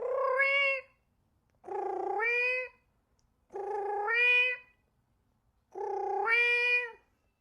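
A cat meowing four times, each meow about a second long and rising in pitch toward its end, about two seconds apart.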